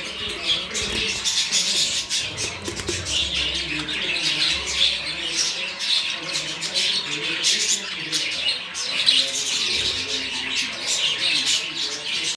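Budgerigars chattering: a dense, continuous stream of quick chirps, squawks and warbles.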